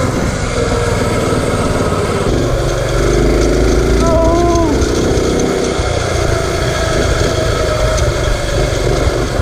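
Mini bike's small generator engine running steadily under throttle, a low continuous rumble. About four seconds in, a short whine rises and then falls.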